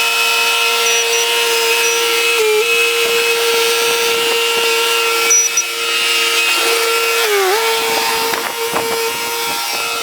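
Bobcat skid-steer engine running steadily at high revs, its pitch sagging briefly twice, about two and a half and seven seconds in, as it takes load pushing snow.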